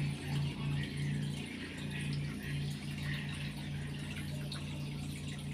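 Aquarium filter or pump running: a steady low electric hum with water trickling and splashing over it.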